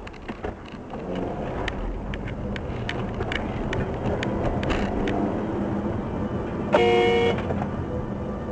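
A car horn sounds once, briefly, about seven seconds in, over steady traffic and engine noise. A scatter of sharp clicks runs through the first half.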